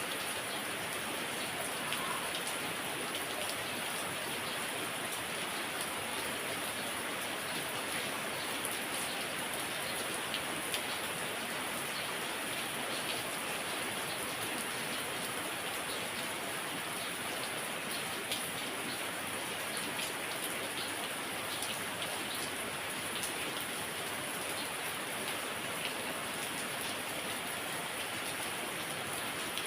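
Heavy rain falling steadily, an even hiss of downpour with scattered individual drops ticking on surfaces.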